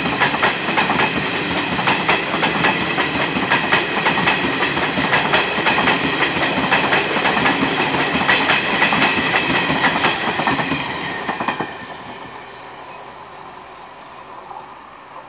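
Coaches of an Indian Railways passenger train passing close, wheels clacking over the rail joints. The noise drops off suddenly about twelve seconds in as the last coach goes by, then fades as the train moves away.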